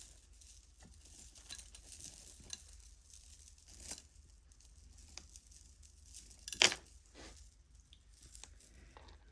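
Faint handling of costume jewelry: a plastic bag rustling and beads and metal pieces clinking, with a sharper clink about two-thirds of the way through.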